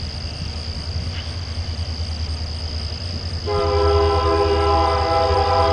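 Approaching freight locomotive running with a low rumble, and about three and a half seconds in its air horn sounds a steady multi-note chord, louder than the rumble and held through the end. A constant high drone of night insects runs underneath.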